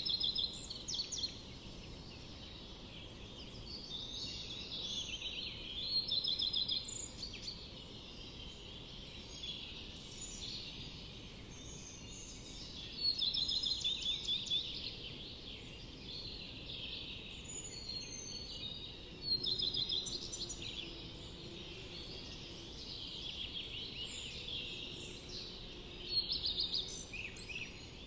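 Songbirds singing in a forest: loud trilling song phrases come about every six or seven seconds, with softer chirps between them, over a steady low background hiss.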